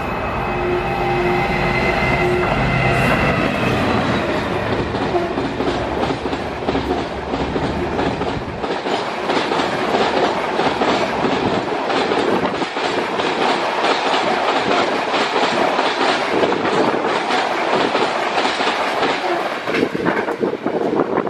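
GB Railfreight Class 66 diesel locomotive 66736 passing with its two-stroke EMD engine running, the engine note fading within the first few seconds. The wagons of an engineering train then roll past with a rhythmic clickety-clack of wheels on the track.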